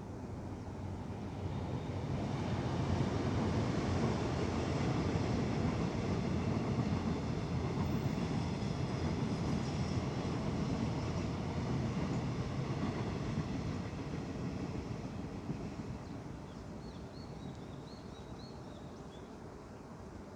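A vehicle passing by: a broad rumbling noise that swells over a couple of seconds, holds, then slowly fades away.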